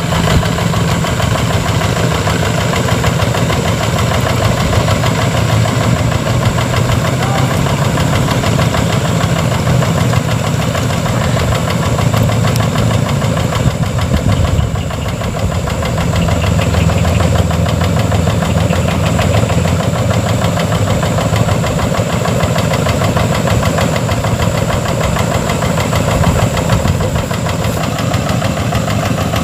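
Rice-field tractor's engine running steadily with a knocking clatter, level dipping slightly about halfway through.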